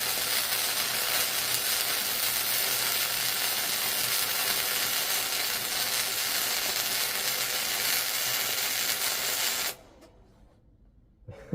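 Electric welding arc crackling and sizzling steadily, with a low hum under it. It cuts off suddenly about ten seconds in, when the circuit breaker trips. A click follows near the end.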